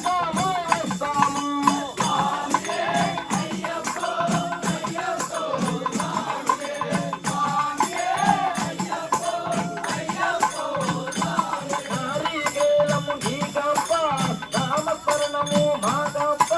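Devotional bhajan: a melodic sung line over shaken rattle-like hand percussion keeping a steady beat.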